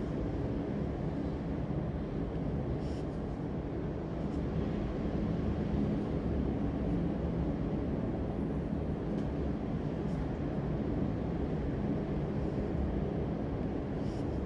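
A steady low rumbling hum with a few faint soft rustles.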